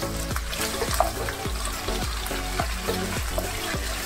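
Potato slices sizzling in hot oil with cumin seeds in a kadhai while a spatula stirs and turns them, with a few light taps. Background music with a steady beat plays along.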